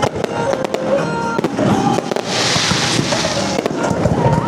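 Fireworks going off in quick succession: a string of sharp bangs and pops, with a dense hissing crackle about two seconds in that lasts about a second. Music plays underneath.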